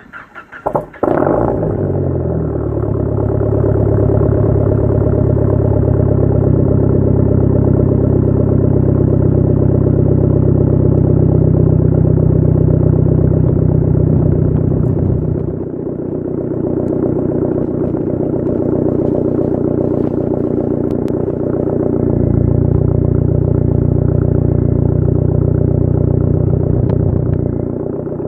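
Dodge Neon SRT-4's turbocharged 2.4-litre four-cylinder cold-starting through a 3-inch catless MPx exhaust: a brief crank, the engine catches about a second in and settles into a steady, loud idle. The deep exhaust drone dips twice, at about the middle and again near the end.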